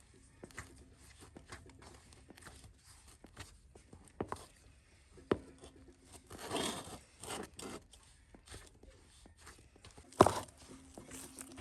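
Things being handled: scattered light clicks and knocks, a few of them sharp, with a brief rustle about six seconds in.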